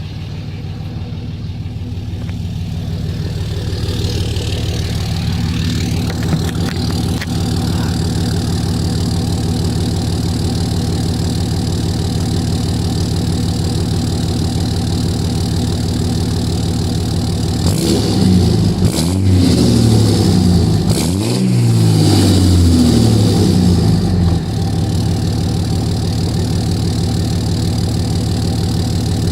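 2006 Cummins 5.9 L inline-six turbo-diesel with an aftermarket exhaust idling steadily, then revved in several quick rises and falls about two-thirds of the way in before dropping back to idle.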